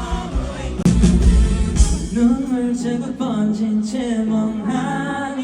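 Live band music with singing, loud, with a heavy bass; the band comes in harder about a second in.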